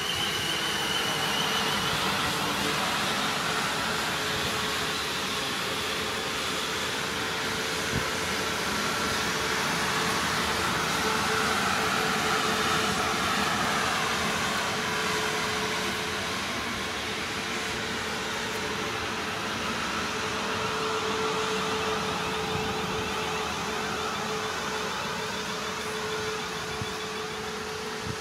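South Western Railway electric multiple unit passing through the station: a steady rush of wheels on rail and moving air with a steady hum, swelling and easing as the coaches go by, and one sharp click about eight seconds in.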